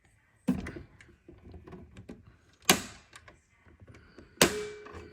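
Three loud knocks or thumps roughly two seconds apart, with small clicks and taps between them; the last knock leaves a brief ringing tone.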